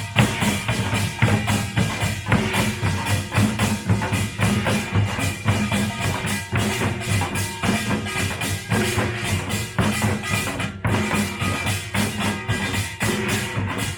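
Pungmul (Korean farmers' music) percussion band playing a fast, dense rhythm of drum strokes and ringing metal gongs.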